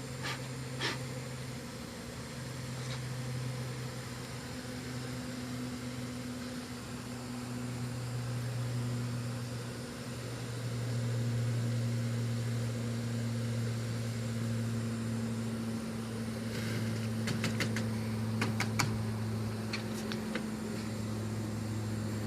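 Honey bees from an opened wall colony buzzing in a steady low hum that drifts slowly in pitch. A few sharp clicks and taps come near the start, and a quick run of them comes late on.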